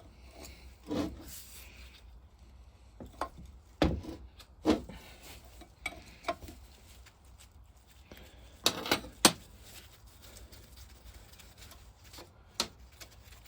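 Scattered clinks, knocks and scraping of a spanner and loose metal parts as nuts are undone on the old cast vaporiser of a Lister stationary engine. A quick cluster of sharp clinks about nine seconds in is the loudest.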